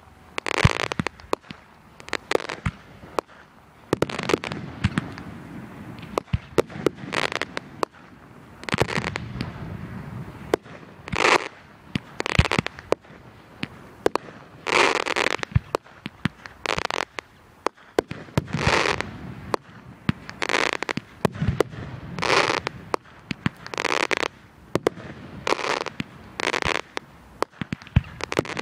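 Fireworks going off in a rapid series: sharp bangs, each followed by a short crackling hiss, about once every second or so.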